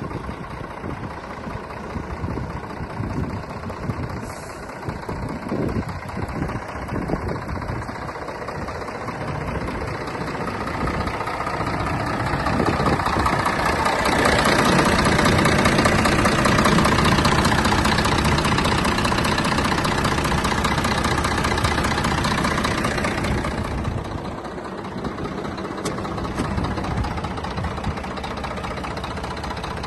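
Scania truck's diesel engine idling, then revved up gradually from about ten seconds in and held at high revs for around ten seconds before dropping back to idle.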